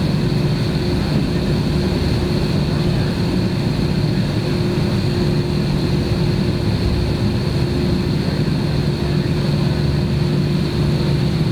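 Steady cabin drone inside an Airbus airliner on the ground before takeoff, its jet engines running at idle: an even low hum with a faint high whine over it.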